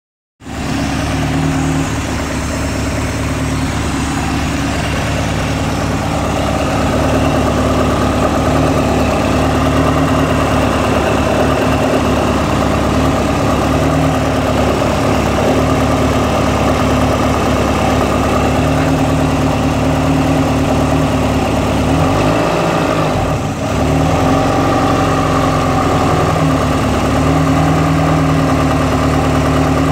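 Built Honda B20 VTEC four-cylinder engine idling steadily. The owner suspects an early rod knock from its bearings, though he is unsure it is really there.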